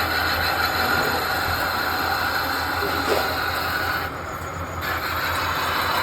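Metal lathe running while machining a brass bar: a steady machine hum with a higher cutting hiss. The cutting hiss drops out briefly about four seconds in.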